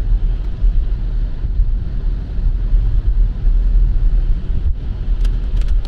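Steady low road rumble heard inside a moving car's cabin at highway speed, with tyre noise on a wet road. A few faint clicks come near the end.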